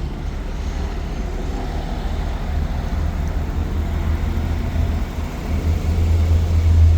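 Isuzu NPR box truck's 6.0-litre V8 idling, a steady low hum that grows somewhat louder toward the end.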